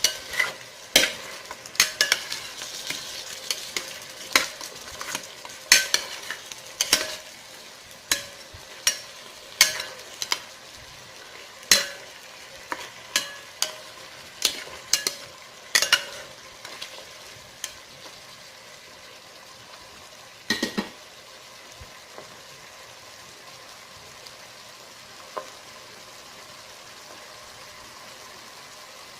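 Chicken pieces sizzling as they fry in oil in a pan, being browned. A cooking utensil scrapes and knocks against the pan as the chicken is stirred, about once a second for the first half; after that only the steady sizzle continues.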